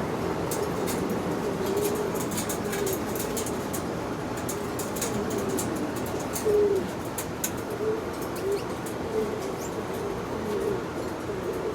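Domestic pigeons cooing over and over in low, rolling phrases, with a scatter of light clicks.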